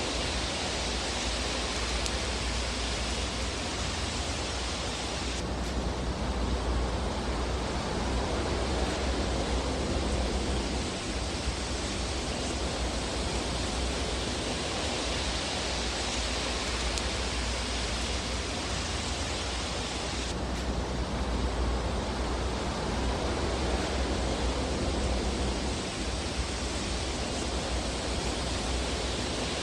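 Fireplace fire burning: a steady, even rushing hiss with no distinct pops standing out.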